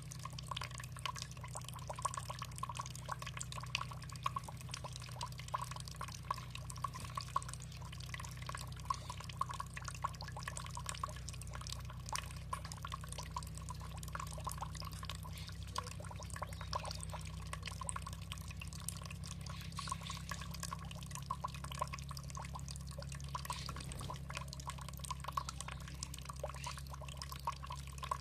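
Water trickling and dripping, a dense, continuous patter of small drips and splashes over a steady low rumble.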